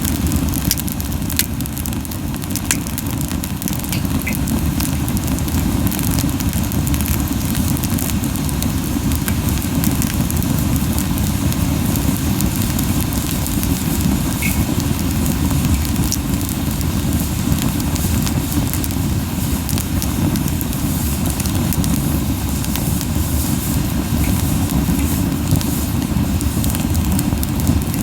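Camellia-wood campfire burning hot, with a steady low buffeting of the flames that is strong because the fire is burning too fiercely, and scattered sharp crackles and pops from the wood.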